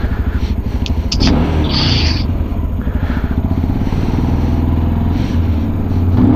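Peda Tekken 250 motorcycle engine running at low revs with a rapid, even putter, its pitch swinging up and back down briefly about a second in and again near the end.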